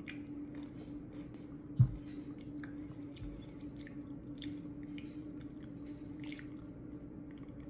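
Mouth sounds of someone eating a Dairy Queen turtle Blizzard: quiet chewing with small scattered clicks, and one low thump about two seconds in. A steady low hum runs underneath.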